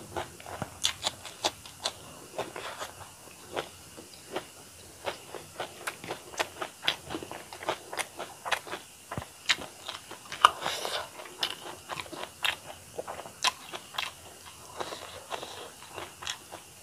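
A person chewing a mouthful of rice and fish, with many short, sharp, wet mouth clicks at an irregular pace and a longer noisy stretch of chewing about ten seconds in.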